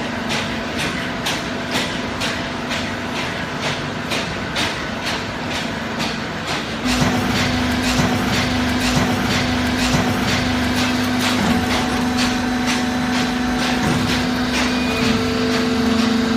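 Horizontal baler running, its machinery humming steadily with a fast regular clacking about three times a second. About seven seconds in the clacking stops and the machine runs louder, with a stronger, slightly higher hum and irregular knocks.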